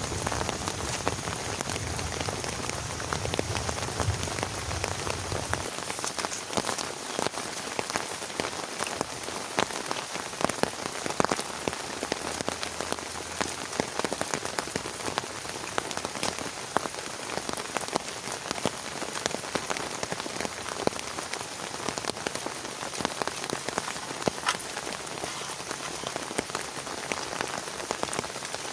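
Heavy rain pattering on a surface: a dense steady hiss full of sharp individual drop hits. A low rumble sits under it for the first six seconds or so, then drops away.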